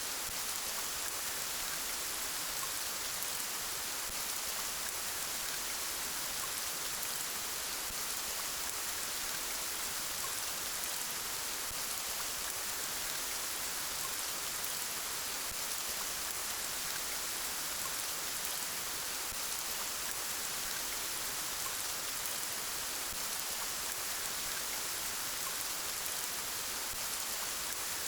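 Steady, gentle rain falling on surfaces: an even patter that holds without change.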